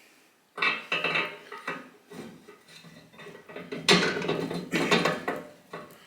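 Metal parts clinking, clanking and rattling as a motorcycle swing arm and its pivot bolt are fitted into the frame. The clatter starts about half a second in, comes in irregular bunches, and is loudest about four seconds in.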